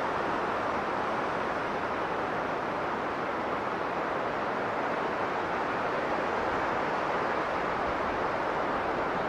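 Blizzard wind blowing hard and steady, an even rush with no gusts or breaks.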